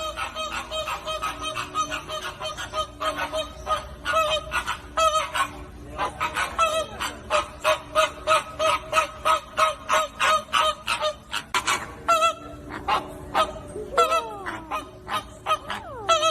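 A flock of flamingos honking: many short, rapid calls from several birds at once. A few longer calls slide down in pitch around the middle and near the end.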